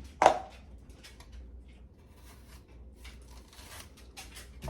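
Lemon cucumber being sliced on a mandoline slicer by hand without the guard: a sharp knock about a quarter second in, then a series of faint, quick scraping strokes as the cucumber is pushed across the blade.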